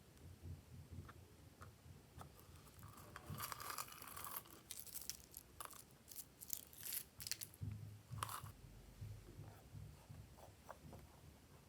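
Glossy slime being kneaded and stretched by hand: soft squishing with scattered sticky clicks and crackles, busiest from about three to nine seconds in.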